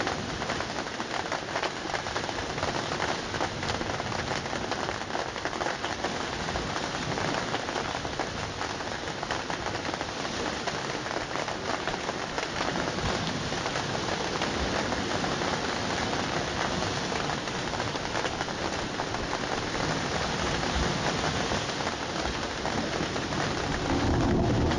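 Steady rain falling, a dense patter of drops striking a surface. A louder, lower sound sets in just before the end.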